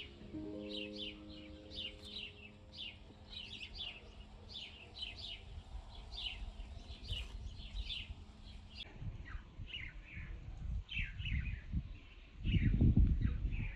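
Small songbirds chirping continuously, a quick run of short falling chirps, with soft piano notes held and fading in the first seconds. Near the end a brief, loud low rumble rises and falls.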